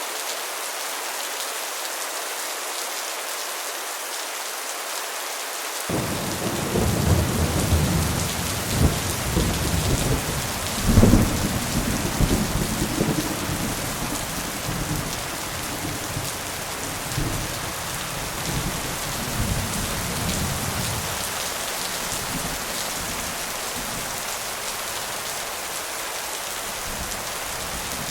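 Steady rain hissing down through the whole stretch. About six seconds in, a long rolling rumble of thunder starts suddenly, swells to its loudest a few seconds later and dies away over about fifteen seconds.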